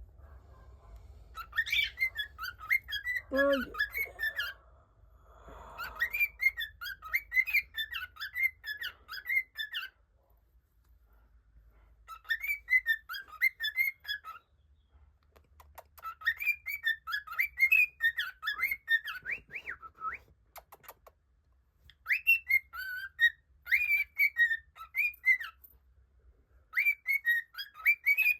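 A pet bird whistling in quick chirping bouts of a few seconds each, six in all with short pauses between. A person lets out a short groan about three and a half seconds in.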